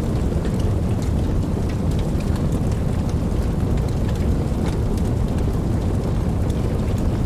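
Steady rainfall with many small drop ticks over a deep, continuous low rumble that holds level throughout.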